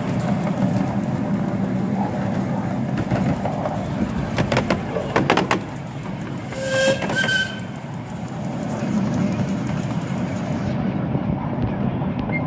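Steady running rumble of a miniature steam railway's passenger carriage on the track. A quick run of clicks from the wheels over rail joints comes about four and a half seconds in, and two short, high whistle toots follow about two seconds later.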